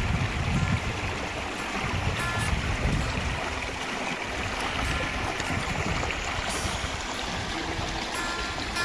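River water running over rocks in a steady rush, with uneven low rumbling through the first few seconds.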